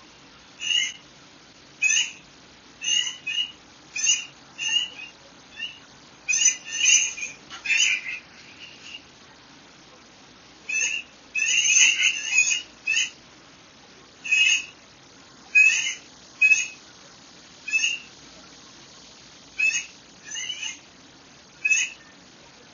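Wild birds calling: short, sharp chirps repeated about once a second, some in quick clusters, with a brief lull near the middle, over a faint steady background hiss.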